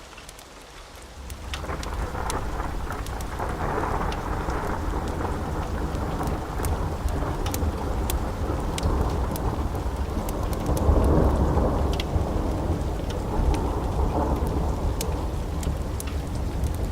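A long roll of thunder builds in about a second in and rumbles on through heavy, steady rain, swelling twice. Scattered sharp ticks sound over it.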